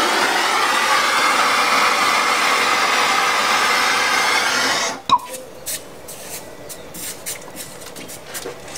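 A steady hiss cuts off abruptly about five seconds in. It is followed by scattered light clicks and scrapes from handling copper pipe and fittings during plumbing work.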